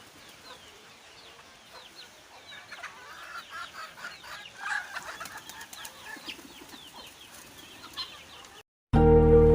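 Birds calling throughout with many short, high, falling chirps, busiest a few seconds in. Near the end the sound cuts out and loud music begins.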